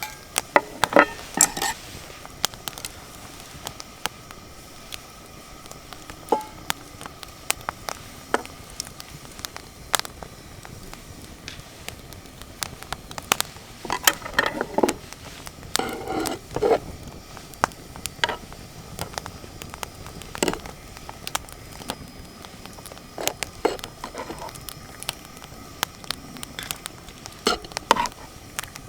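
Wood fire crackling with scattered sharp pops, and a few knocks and clinks of cookware.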